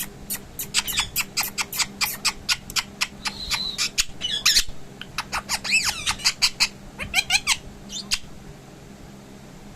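Pet parrot squawking in a rapid run of short, sharp calls, about three or four a second, with a few longer wavering calls mixed in.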